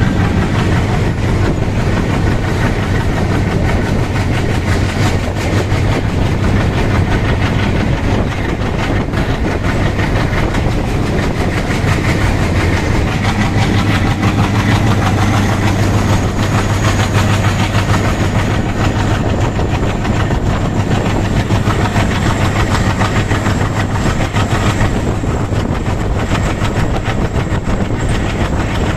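ALCO WDP3A diesel locomotive running at speed: a steady engine drone under rapid wheel clatter on the rails. A faint high whine creeps in about halfway through.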